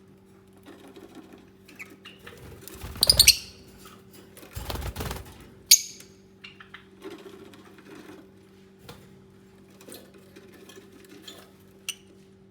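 Lovebirds shuffling and scratching about with scattered small clicks and rustles. There are short, sharp high chirps about 3 and 6 seconds in, between them a brief burst of rustling or wing movement, and a faint steady hum underneath.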